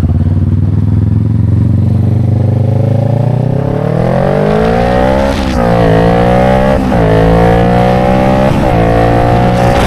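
A vehicle engine holding a steady note, then accelerating hard through the gears: its pitch climbs, drops sharply at each of three upshifts, and climbs again.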